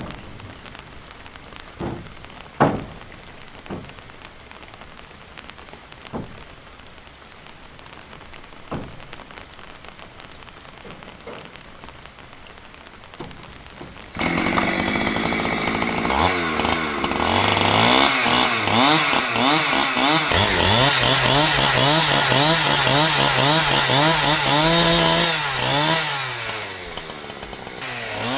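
A few scattered knocks, then about halfway through a chainsaw starts suddenly and runs loud, its engine revving up and down as it works, with a dip in level near the end.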